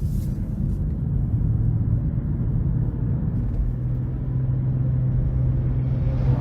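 Inside the cabin of a 2023 Nissan Rogue while driving: the turbocharged three-cylinder engine's steady low hum over the rumble of tyres on the road.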